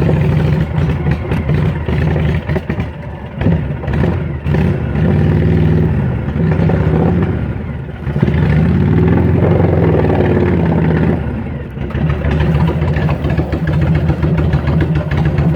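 A motor vehicle's engine running during a ride, its pitch rising and falling as the revs change. The loudness dips briefly a few times.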